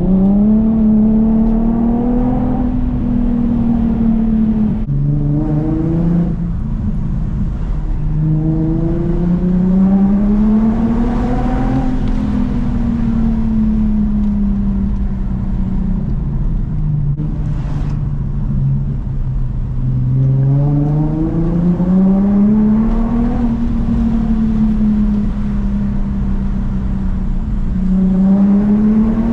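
Infiniti G37S's VQ37 V6 through a custom 3-inch single catback exhaust, driven hard: the engine note climbs and falls several times, with sudden pitch drops about five and six seconds in, like gear changes.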